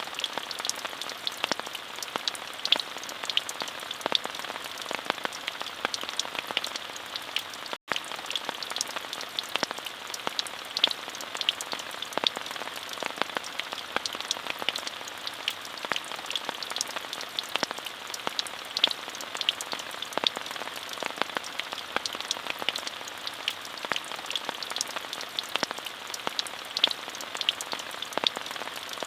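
Steady rain falling, an even hiss dotted with the taps of individual drops. It cuts out for a split second about eight seconds in.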